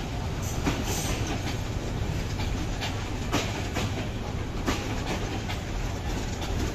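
Passenger train rolling slowly along the track: a steady low rumble with scattered sharp clacks as the wheels pass over rail joints.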